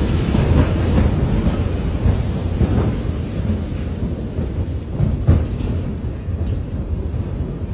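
Deep rumble rolling on after the Beirut port explosion, slowly fading, with a few sharp cracks, the loudest about five seconds in.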